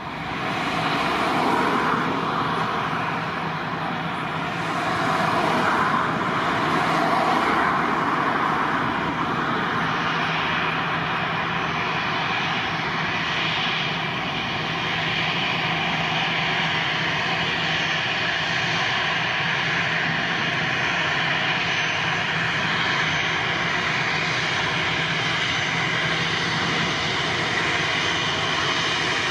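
Jet airliner engines running, swelling over the first few seconds and then holding steady, with a steady whine over the broad engine noise.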